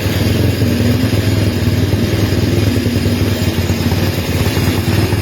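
Motorcycle engine running steadily at low revs, a rapid even beat of exhaust pulses with no change in speed.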